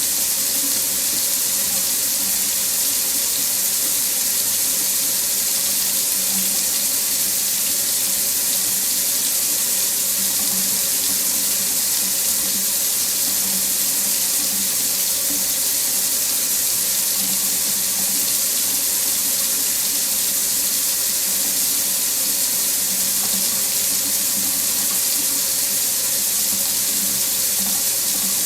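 Water running steadily from a faucet into a sink, an even, unbroken hiss that is strongest in the high range.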